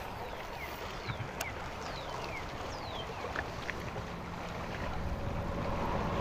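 Fishing boat's motor running with wind on the microphone, a steady hum growing louder over the last couple of seconds. Several short falling whistles sound in the first three seconds.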